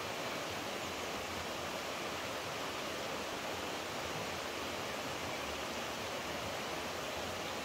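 Steady rushing of running water, an even unbroken wash of noise.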